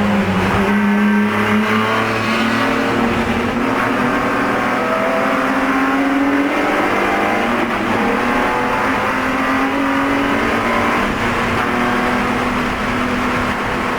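BMW E46 race car's straight-six engine heard from inside the car at racing speed. Its pitch drops at the start, then climbs steadily under hard acceleration for several seconds before settling into steadier running with small changes.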